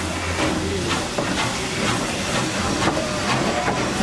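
Norfolk & Western 611 J-class 4-8-4 steam locomotive hissing steam, with faint repeated puffs.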